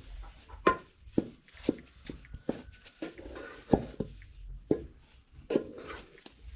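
A series of sharp knocks at an uneven pace, roughly one or two a second.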